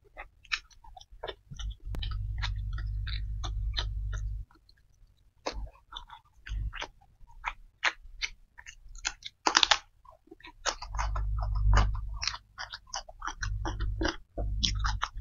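Close-miked eating: chewing and biting on fried tempeh and young jengkol beans, with many sharp crunchy clicks and one loud crunch about halfway through. A low rumble comes and goes for stretches of a second or two.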